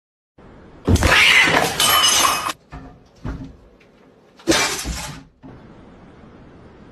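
Two loud crashes about three and a half seconds apart, the first longer and with a bright ringing like breaking glass, with a few small clicks between them.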